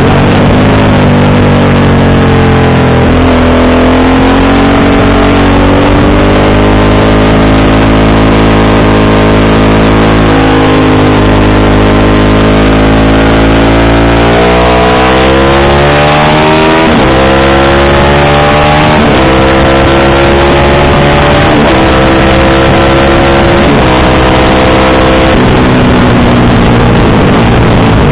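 Motorcycle engine through an aftermarket exhaust, loud while riding: the pitch rises and falls with the throttle, and in the second half it steps through several gear changes.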